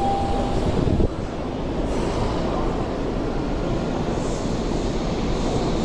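Tokyu 5050 series electric train with a Hitachi IGBT VVVF inverter: steady running rumble, with a brief steady whine in the first half-second. About a second in, the sound changes suddenly to a steadier rumble of the train at an underground platform.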